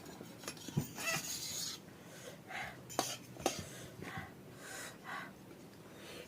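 Someone eating: soft chewing and breathing, with about three sharp clicks of a utensil against a plate or bowl.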